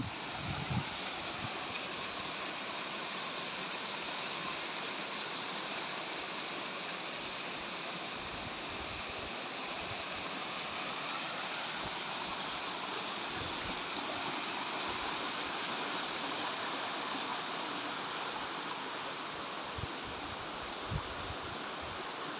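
Mountain river cascades: water rushing steadily over the falls. A few brief low bumps come right at the start and again near the end.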